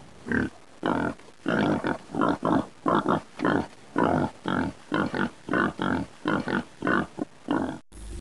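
Wild boar grunting: a steady run of short, rough grunts, about two or three a second.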